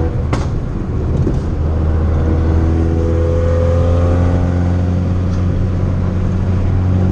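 Turbocharged four-cylinder engine of a modified Fiat 500 Abarth running steadily under way, its pitch rising gently around the middle, over a strong low exhaust drone. A single sharp click about a third of a second in.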